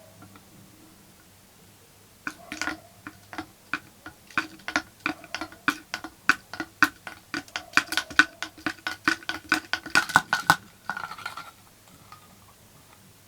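A run of sharp metallic clicks, about two to four a second, each leaving a short ringing at the same few pitches. It starts about two seconds in, grows busier, and stops a couple of seconds before the end.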